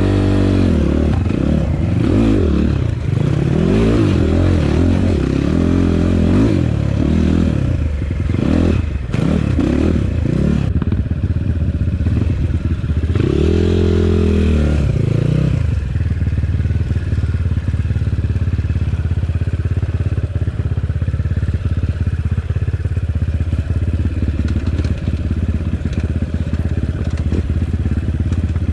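Enduro motorcycle engine revving up and down over and over as the bike is ridden hard, with clattering and scraping from the bike. About sixteen seconds in, the revving stops and the engine holds a steady, even note.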